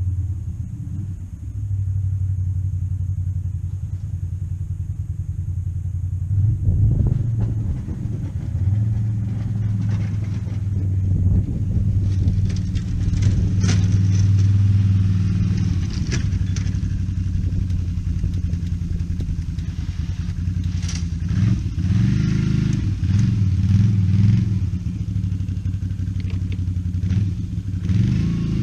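A motor vehicle's engine running steadily, speeding up about six seconds in and revving unevenly again a little past the middle.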